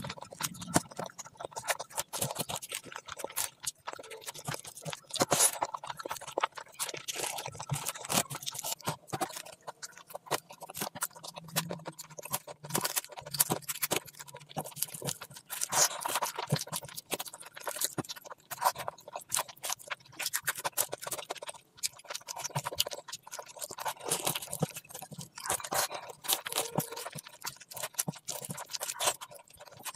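Close-miked eating sounds: wet chewing and lip smacking of curry and rice eaten by hand, with irregular clicks and crunches throughout.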